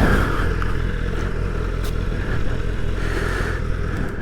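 BMW S1000RR inline-four engine idling steadily in neutral, its sound dropping away sharply at the very end.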